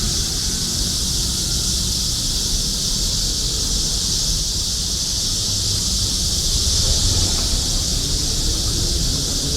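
Cicadas droning in a steady, unbroken chorus, with a low rumble of traffic underneath.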